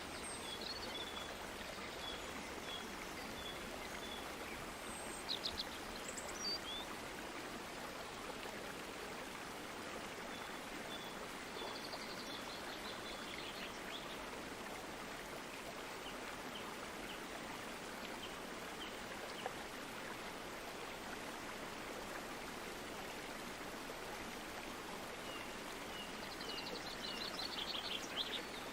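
A stream running steadily, with a bird calling over it: three runs of short, evenly spaced high notes, about two a second, and a few brief rapid trills.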